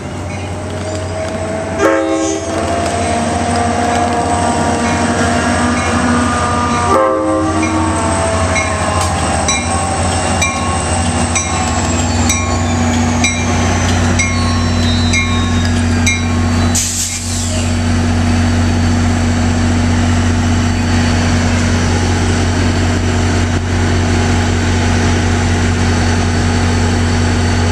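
Diesel locomotive horn sounding as an NJ Transit train runs into the grade crossing, its pitch sliding down over the first half, while the crossing's mechanical bells clang about once a second. From about halfway the locomotive's diesel engine runs past with a loud steady low rumble, with a short hiss of air near the middle.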